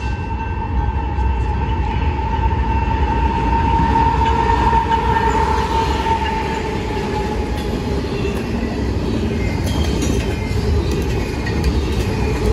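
A diesel-hauled BNSF double-stack freight train passing close by: the lead locomotives go past with a heavy rumble that is loudest about four to five seconds in, then the container cars roll by with steady wheel and rail noise. A steady high tone is heard through the first two-thirds, sagging slightly in pitch before it fades.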